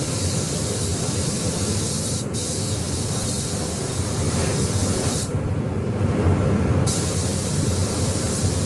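Air spray gun hissing as paint is sprayed, cut off for an instant about two seconds in and released for about a second and a half midway before resuming, over a steady low rumble.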